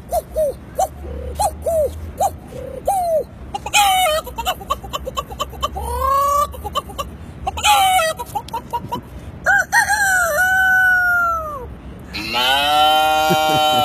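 Chicken-like clucking: a quick run of short calls, then louder bursts of calls, then a long falling rooster-like crow. A sustained, drawn-out call follows near the end.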